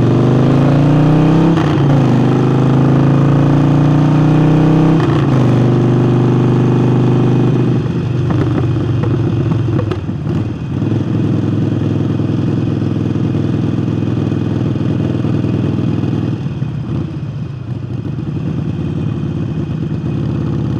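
Harley-Davidson Forty-Eight's V-twin engine, fitted with a new air intake, accelerating hard through two gear changes, then running at a steadier cruise and easing off twice.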